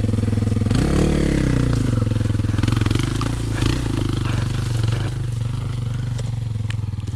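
Trail motorcycle engine running, its pitch dipping and swinging back up about a second in, then holding steady, with a few light knocks and clatter.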